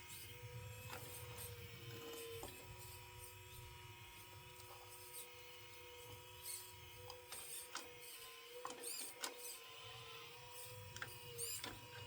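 Small electric motors of a homemade 1/12-scale metal RC excavator running with a faint steady whine, with scattered clicks and light metal taps, several in a cluster near the end.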